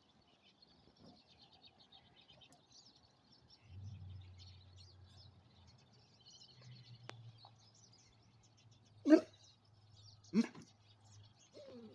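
Small birds chirping faintly throughout, with a dog giving two short loud barks about a second apart near the end.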